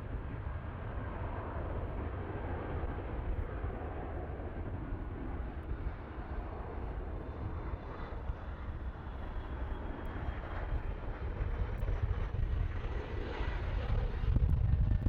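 Aircraft engines rumbling steadily, growing louder near the end, with a faint high whine that slowly falls in pitch.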